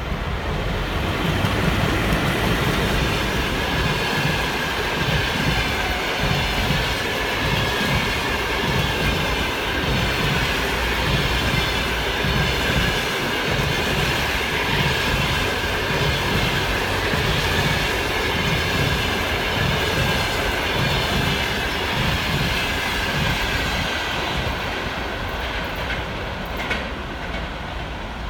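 Passenger train hauled by a ChS7 electric locomotive passing at speed, the coaches' wheels beating a steady clickety-clack rhythm over the rail joints with a high, steady wheel squeal over it. It fades slightly near the end.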